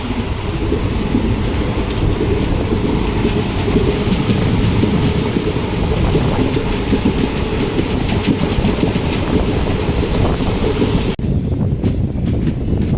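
Passenger train running along the track, heard from aboard a sleeper coach: a steady heavy rumble with clicking and clatter of the wheels over the rails. About 11 seconds in the sound cuts abruptly to a duller rumble.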